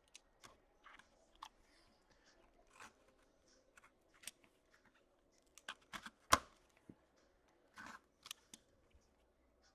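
Sealed hockey card box being handled and opened: scattered sharp clicks, crinkling and tearing of packaging, with one loud snap about six seconds in.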